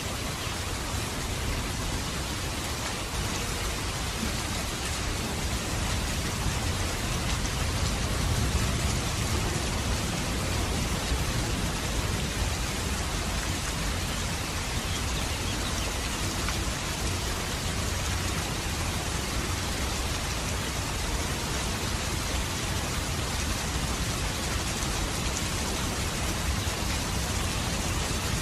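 Steady heavy rain falling and pattering on surfaces, a dense even hiss with a low rumbling undertone.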